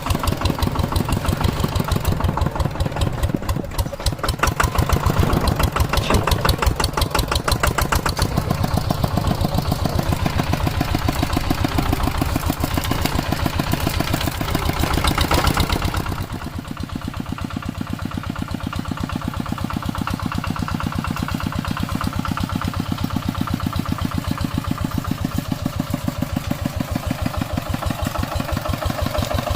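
Two-wheel walking tractor's single-cylinder diesel engine running with a rapid, even knock. About halfway through the sound drops a little and turns duller, then carries on steadily.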